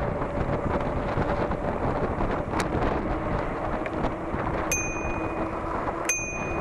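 Steady muffled rumble of wind and rain noise during a rainy ride, dulled as if through a plastic covering. A click comes midway, then two short high ringing dings about a second and a half apart.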